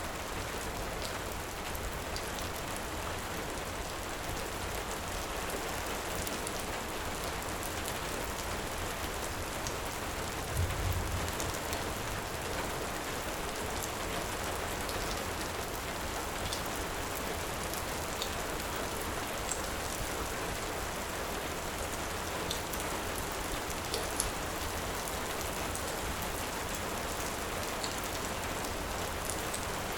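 Heavy rain falling steadily, mixed with a wood fire crackling in scattered small pops. A brief low rumble comes about a third of the way in.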